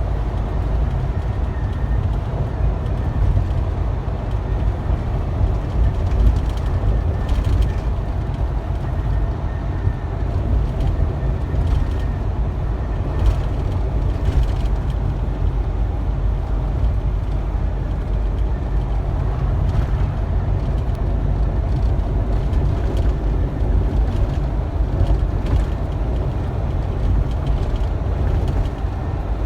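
Truck driving along: a steady low engine and road rumble with a few faint clicks and rattles.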